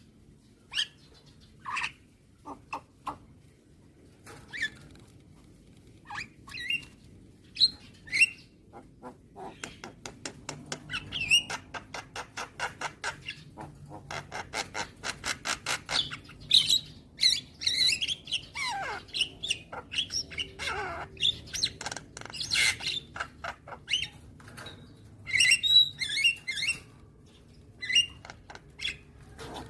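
Javan myna singing a varied run of harsh chirps and squawks: separate calls at first, then a rapid rattle of about four notes a second, a few downward-gliding whistles, and more chatter.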